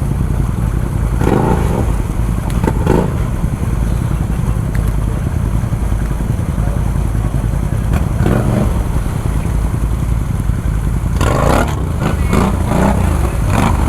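ATV engine running steadily with a heavy low rumble. A few short bursts of clatter or distant voices come through over it.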